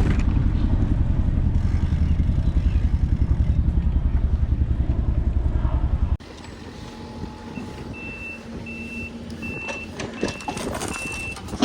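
A loud, low, rapidly pulsing rumble that cuts off abruptly about six seconds in. It gives way to a vehicle's reversing alarm beeping at an even pace, a short high beep roughly every 0.7 s.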